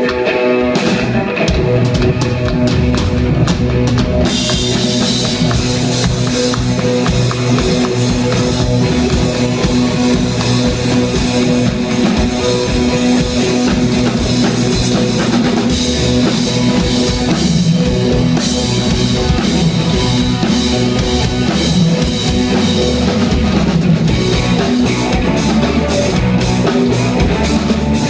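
Live rock band playing: a drum kit and guitars, with the cymbals coming in fully about four seconds in and the song running on at full volume.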